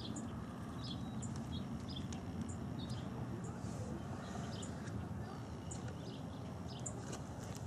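Scattered faint high chirps of small birds over a steady low background rumble.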